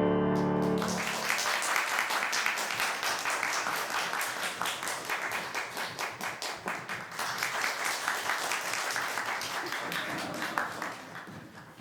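A piano's final chord rings and stops about a second in, then an audience applauds, the clapping thinning out and fading near the end.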